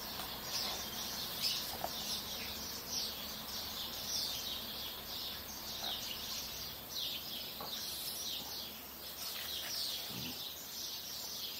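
Small birds chirping: a dense, continuous run of short high chirps, several a second, overlapping one another.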